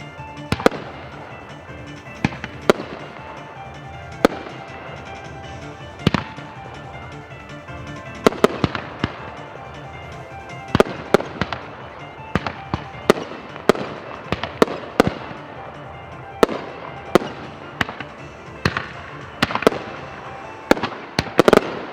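Fireworks shells bursting in dozens of sharp bangs at irregular intervals, sometimes several in quick succession, over background music.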